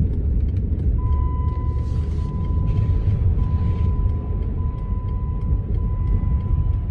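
Inside the cab of a 2009 Jeep Commander with the 5.7 Hemi V8, driving through snow: a steady low rumble of engine and tyres. A thin, steady high tone starts about a second in and holds.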